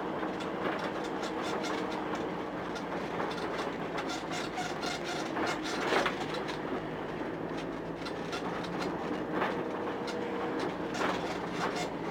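Inside a moving vehicle's cab: the engine running steadily under many small knocks and rattles as it drives over an uneven, bumpy street.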